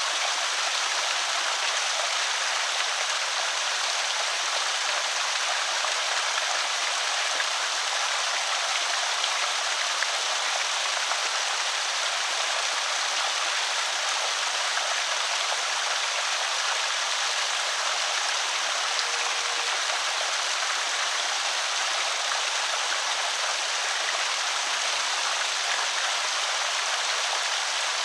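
Water of a small creek spillway pouring and splashing steadily, an even rushing trickle.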